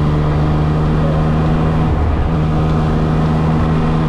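Yamaha XSR900's inline three-cylinder engine running steadily, with a brief break in the note about two seconds in.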